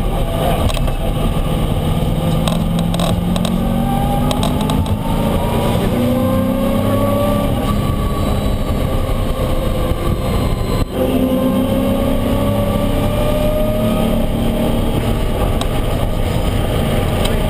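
Mustang road race car's engine under hard acceleration, its pitch climbing slowly in two long pulls with a brief drop about two-thirds of the way through, as at a gear change.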